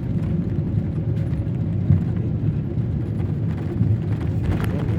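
Steady low rumble inside the cabin of a Boeing 777-300ER airliner as it comes in to land: engine and airflow noise, with a few faint clicks near the end.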